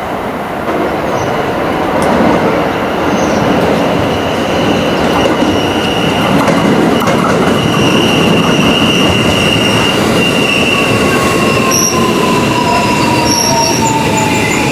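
A four-car 521-100 series electric train pulls into the platform and brakes. Its wheels rumble and squeal on the rails, and a whine falls in pitch as it slows.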